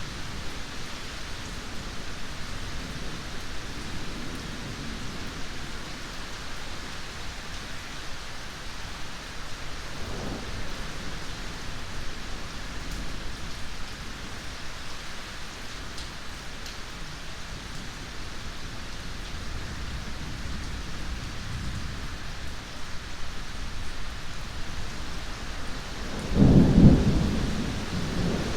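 Steady rain falling, with a faint low rumble of thunder about a third of the way in and a loud, close thunderclap near the end.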